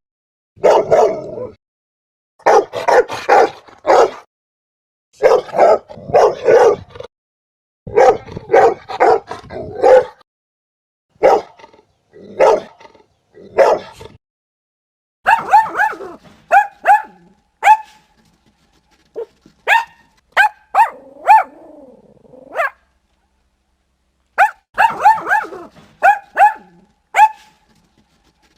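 Dogs barking in repeated short bursts: deep barks in clusters for the first ten seconds, then higher-pitched yapping barks from about fifteen seconds in, with a brief wavering whine around twenty seconds.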